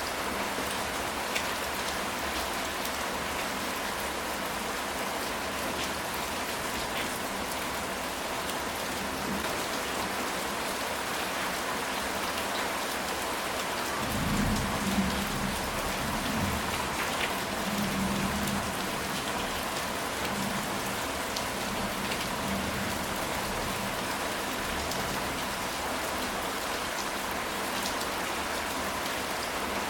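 Steady rain falling on a ceramic tile roof, an even hiss with scattered sharper drop ticks. About halfway through, a low rumble of thunder rolls for several seconds.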